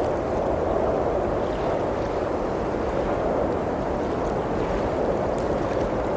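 Steady low rush of blizzard wind, with a few faint crackles from a wood fire.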